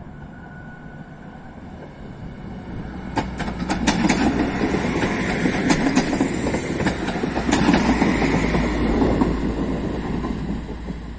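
A regional diesel railcar passing close by at low speed: the engine and running gear rumble, rising about three seconds in, with wheels clicking over rail joints for several seconds as it goes past, then easing slightly as it pulls away.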